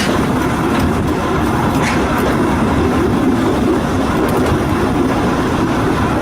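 Volk's Electric Railway car running along its narrow-gauge seafront track: a steady rumble with a few faint wheel clicks.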